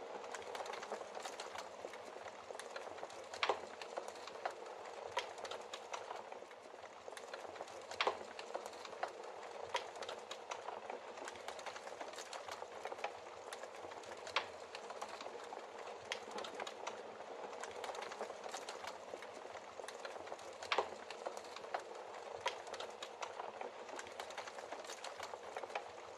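Wood logs burning in a fireplace: a steady hiss and rustle of the flames with frequent small crackles and occasional louder sharp pops.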